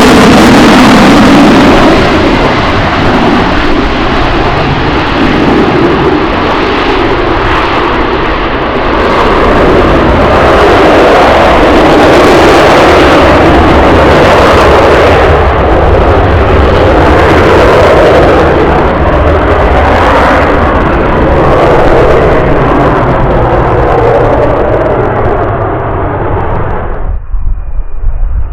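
Military fast jet's engine noise, loud and continuous with a rough, wavering rumble, as heard when a jet takes off or passes low; it cuts off suddenly near the end.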